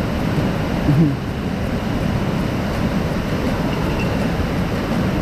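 Steady rushing of water, an even hiss and rumble that runs on unchanged, with a brief voice about a second in.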